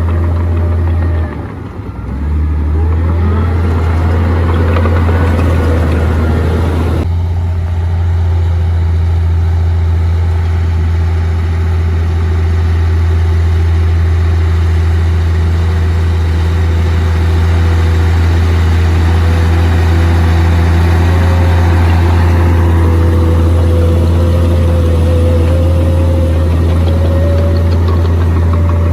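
Komatsu D58P bulldozer's diesel engine running steadily under a deep drone, with a higher wavering whine over it. The sound dips briefly about a second and a half in and changes abruptly about seven seconds in.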